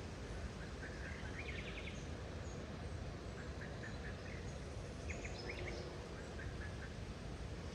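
Small birds calling in short rapid chirping series over a steady background rush of outdoor noise.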